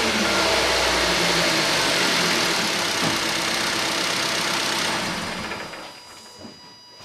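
Nissan Qashqai J10 petrol engine running just after a start, revs settling toward idle, on freshly fitted spark plugs meant to cure a misfire. The sound dies away about five to six seconds in.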